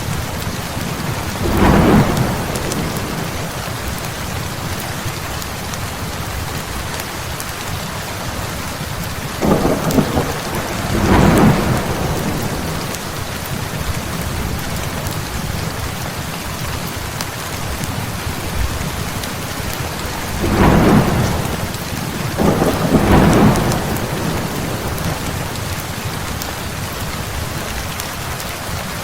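Steady heavy rain with thunder rumbling four times, each rumble a second or two long: about two seconds in, twice close together near the middle, and twice more about two-thirds of the way through.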